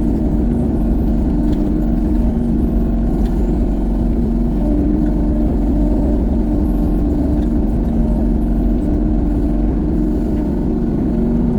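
Excavator's diesel engine running steadily under working load, its drone shifting in pitch now and then as the hydraulics are worked.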